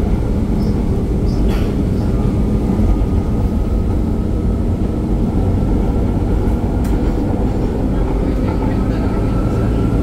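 Metro Manila MRT Line 3 train running, a steady low rumble of the wheels on the track with a faint thin whine above it.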